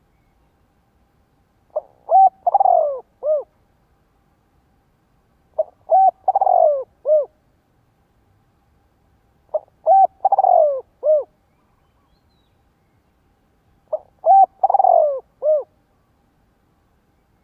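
Spotted dove cooing: four repeated song phrases about four seconds apart, each a short note, a longer rolling coo and a closing note. It is a decoy dove's call played to provoke wild doves into calling back.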